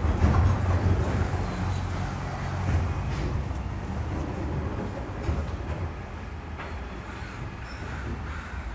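Garbage truck engine running with a low, steady rumble, loudest in the first few seconds and then easing off.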